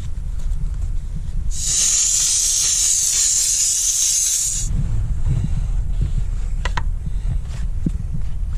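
Dupray Neat canister steam cleaner blowing a jet of steam from its nozzle, a steady hiss that starts about a second and a half in and stops sharply about three seconds later. A steady low rumble runs underneath.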